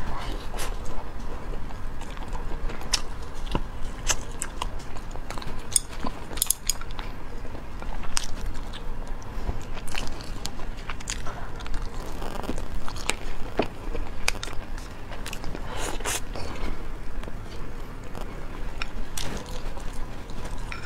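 Close-miked chewing and biting of sticky glazed sweet-and-sour pork ribs and rice: an irregular, dense stream of short mouth clicks and smacks.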